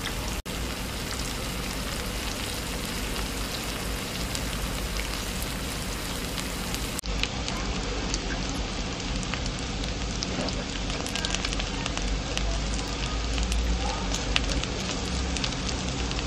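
Shallots, onion, curry leaves and dried red chillies sizzling steadily in hot oil in a non-stick wok. From about halfway through, scattered light clicks and scrapes as a spatula stirs them.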